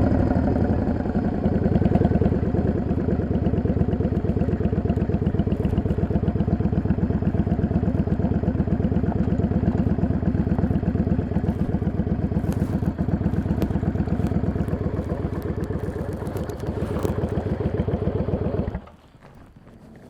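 Yamaha XVS 650 Dragstar bobber's air-cooled V-twin running steadily with an even pulse, then stopping abruptly about 19 seconds in.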